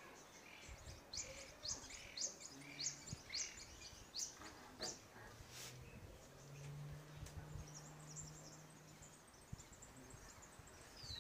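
A bird calling outdoors in a quick series of short, high, downward-sweeping chirps, about two a second, for a few seconds. A faint low steady hum comes in partway through.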